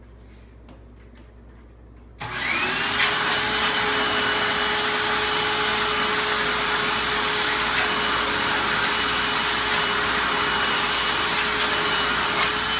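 Vacuum cleaner switched on about two seconds in, its motor whining up to speed, then running steadily with a whine and a loud rushing hiss.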